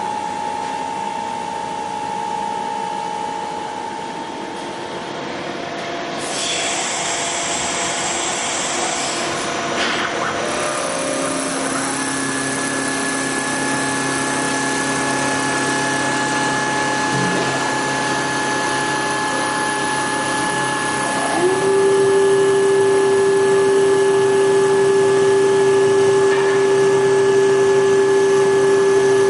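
CNC wood lathe running, with a steady mix of motor whines. About a third of the way in a new low hum joins. About three-quarters of the way through, a motor whine glides up to a higher pitch, holds there, and the whole sound gets louder.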